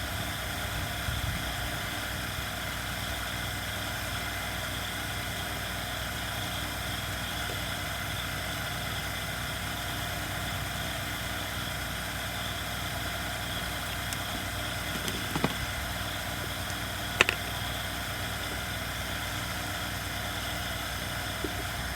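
Steady background hum and hiss, with a few short clicks of small parts being handled, two of them in the second half.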